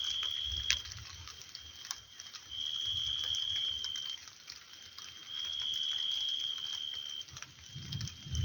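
A small animal's long, high-pitched trill of one and a half to two seconds, repeated about every two and a half seconds, over scattered drips and clicks from the rain. A low rumble comes in near the end.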